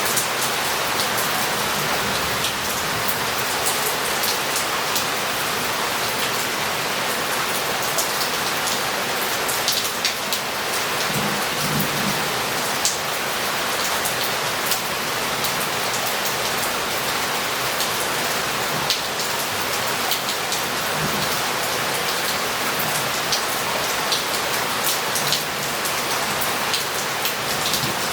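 Heavy rain falling on roof tiles and street paving: a steady dense hiss with many individual drops ticking close by. Low rumbles of thunder swell briefly about a third of the way in and again later.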